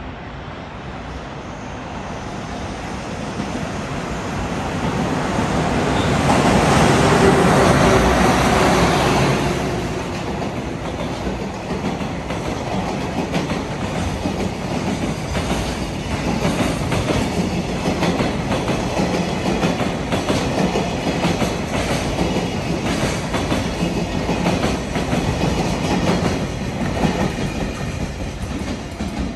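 A train passing close by. It grows louder over the first several seconds and is loudest about eight seconds in, then its wheels keep up a steady clickety-clack over the rail joints.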